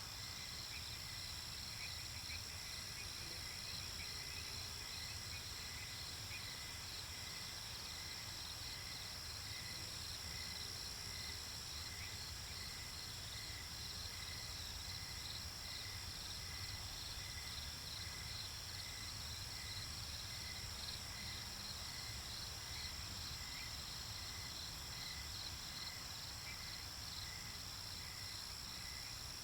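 Night-time nature ambience: crickets chirping in a steady, regular pulse over a constant high-pitched insect drone.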